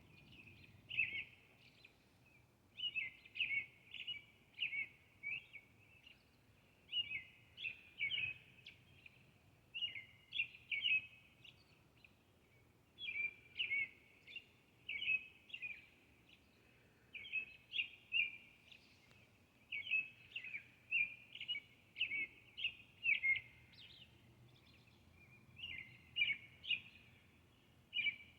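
A songbird singing at dawn: phrases of several quick, high, down-slurred notes, repeated over and over with short pauses between them. A faint low hum runs underneath.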